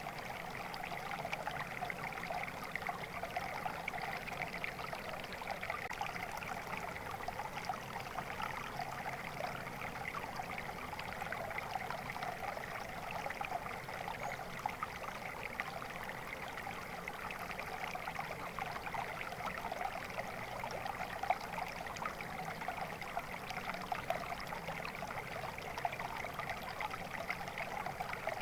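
Water flowing steadily in a stream, a continuous babbling rush with fine splashing texture and no breaks.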